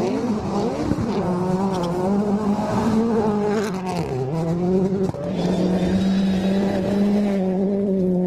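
Rally car engine running hard at high revs, its pitch wavering up and down. The pitch dips sharply about four seconds in, then holds fairly steady.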